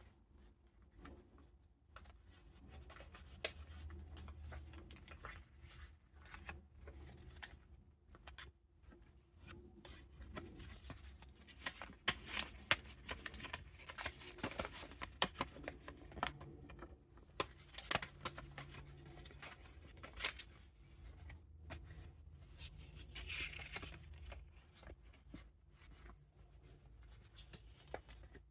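Paper pages of a handmade junk journal being turned and handled: irregular soft rustling and crinkling with sharp little paper snaps, busiest through the middle.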